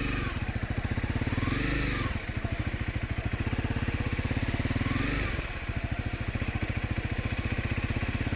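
Honda single-cylinder dual-sport motorcycle engine running at low, steady revs, its separate firing pulses plainly heard, as the bike idles or rolls slowly.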